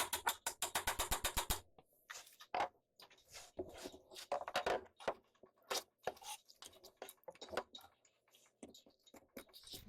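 Rapid, even clicking at about ten a second from a tool at work, stopping after about a second and a half. Then irregular knocks and scrapes, as of wood or tools being handled.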